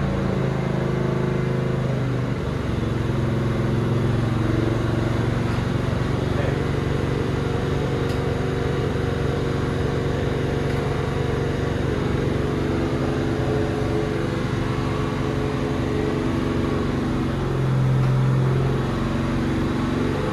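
Doug Rippie LT1 383 stroker small-block Chevy V8 running on an engine dyno, held at a steady speed with an even note; the pitch shifts slightly near the end.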